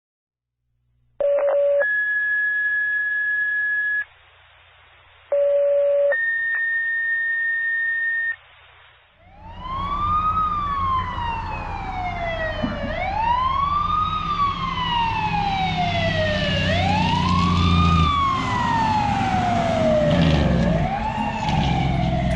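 Fire department dispatch radio sounding two-tone paging tones twice, each a short low tone followed by a longer high tone. Then a fire engine's siren starts, wailing up and down about every four seconds over the rumble of the truck's engine as it responds to a call.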